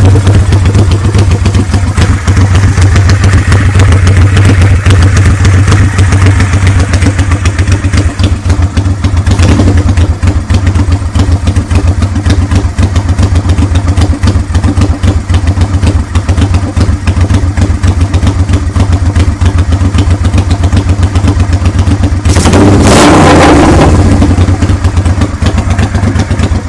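Honda NTV650 Revere's 647 cc V-twin engine running with no exhaust fitted, a very loud, open, rapid pulsing beat at a steady idle. It is revved briefly once near the end.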